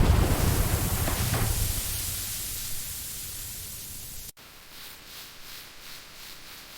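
A loud hiss with a low rumble that fades away over about four seconds, then stops suddenly. After that, quieter rhythmic rubbing strokes follow, about three a second, like hand sanding on a panel.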